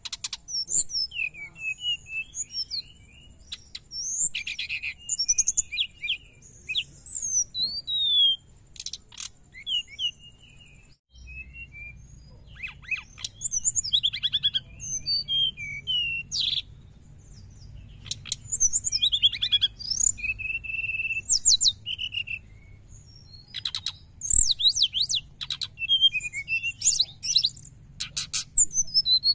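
Brown-chested jungle flycatcher (sikatan rimba dada coklat) singing a fast, varied twittering song of rapid chirps, trills and quick rising and falling whistles, in busy runs with short pauses.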